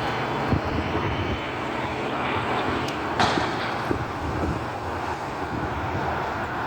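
Front-loading garbage truck's diesel engine running steadily, with a single sharp knock about three seconds in.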